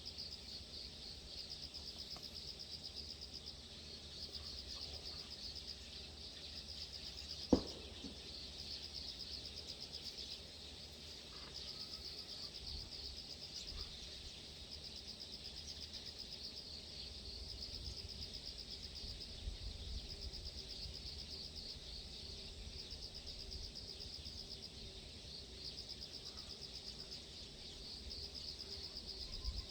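Insects, crickets or katydids, trilling in a steady high chorus of repeated pulsed runs over a low rumble, with a single sharp click about seven and a half seconds in.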